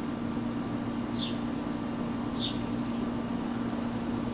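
A steady low mechanical hum runs under a bird's short, high chirp that falls in pitch. The chirp comes twice, a little over a second apart.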